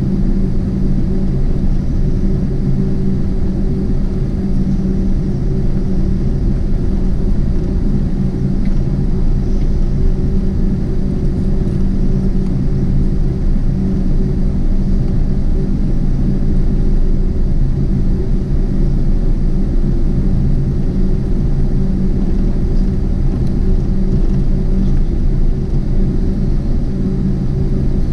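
Steady vehicle rumble with a constant low hum, unchanging throughout.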